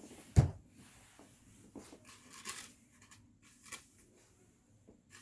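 A water spray bottle spritzing a few short, soft bursts onto wig hair, with one sharp knock about half a second in.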